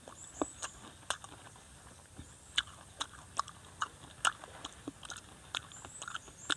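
Chewing a crisp macopa (wax apple) close to a clip-on microphone: irregular crunches and wet mouth clicks, about one or two a second.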